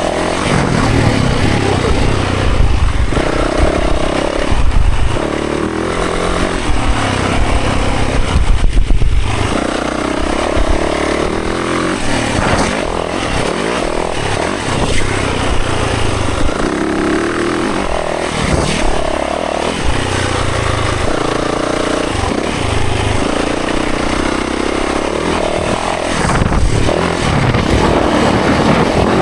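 Dirt bike engine under hard riding, its revs climbing and dropping again and again as the rider accelerates and eases off.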